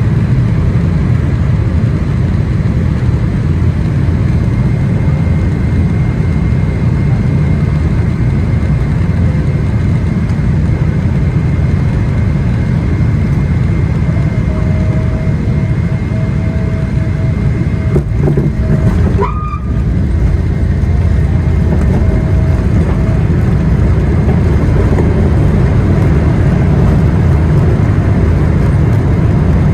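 Boeing 777-300ER cabin noise: a loud, steady low rumble of its GE90 engines and airflow, with a faint steady whine above it. A couple of brief knocks come about two-thirds of the way through, with a momentary dip in the rumble.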